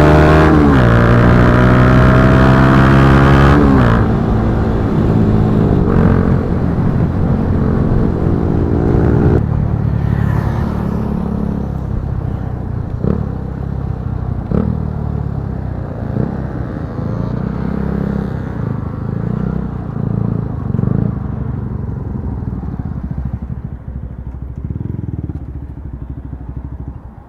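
Bajaj Pulsar NS160's single-cylinder engine through an Akrapovic slip-on exhaust. It revs hard at first, pitch dipping at a gear change and then climbing again. About four seconds in the throttle shuts and the note drops away, with a few sharp exhaust cracks in the middle, and the sound fades steadily toward the end.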